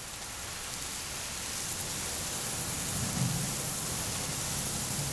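Steady rain falling, an even hiss that grows a little louder over the first couple of seconds, with a low rumble of thunder about three seconds in.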